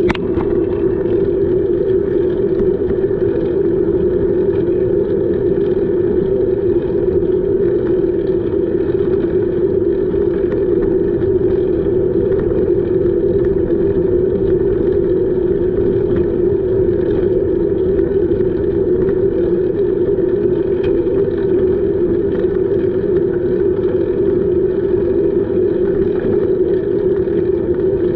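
Steady noise of a bicycle ride picked up on the camera's microphone: wind and rolling noise, with a strong, even hum that does not change.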